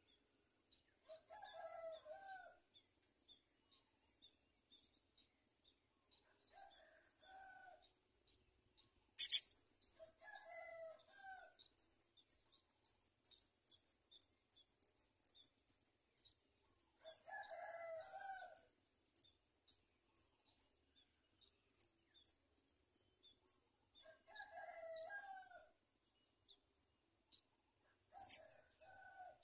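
A rooster crowing over and over, six drawn-out crows spaced several seconds apart, among many short, high, thin bird chirps that come thickest in the middle. A single sharp click about nine seconds in is the loudest sound.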